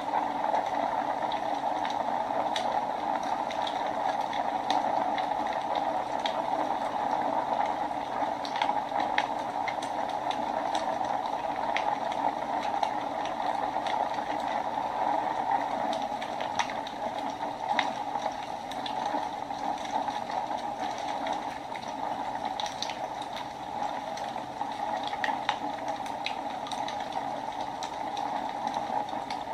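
Wood fire burning in a fireplace: a steady rushing hiss with irregular sharp crackles and pops.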